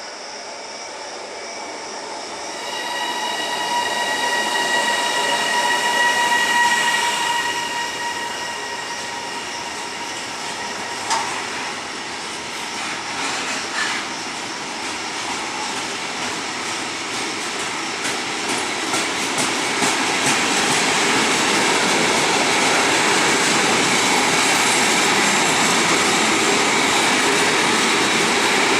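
A train running through a railway station. For several seconds near the start there is a steady multi-tone whine. A sharp click follows, then another, and then a rushing rail noise builds toward the end, with rapid ticks from the wheels over the track.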